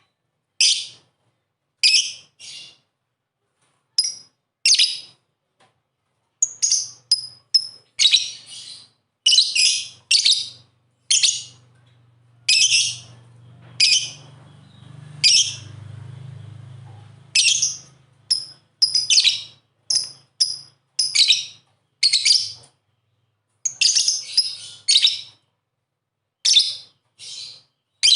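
Lovebird chirping: short, shrill chirps given singly and in quick clusters with brief pauses between, keeping up a steady run of calls. A faint low hum sits underneath for a few seconds around the middle.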